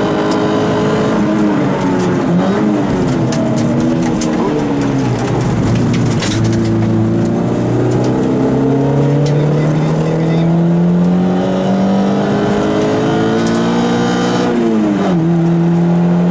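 Peugeot 106 rally car engine heard from inside the cabin under hard driving: the revs fall away in the first few seconds, climb steadily for about nine seconds, then drop sharply near the end at a gear change. A few light knocks and clicks come through over the engine.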